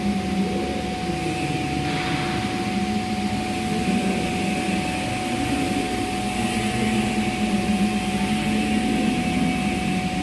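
Steady machine noise with a constant high-pitched hum, running evenly without a break.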